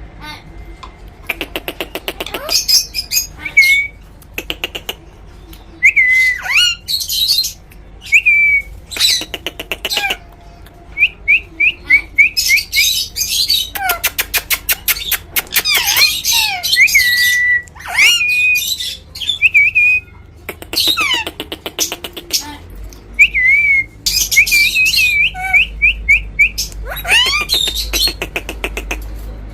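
Pet parrot calling over and over: harsh squawks broken up by clear whistled notes and a few falling glides, with short pauses between bursts.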